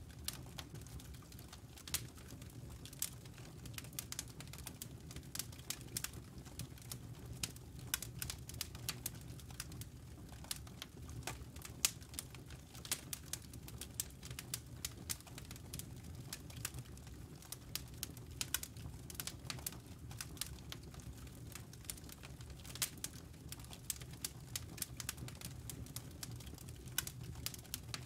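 Wood logs burning in a fireplace, crackling with irregular sharp pops and snaps over a low steady rumble of the fire.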